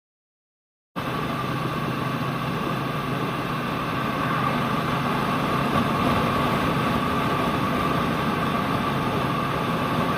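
Triumph Bonneville parallel-twin motorcycle engine running steadily, cutting in abruptly about a second in.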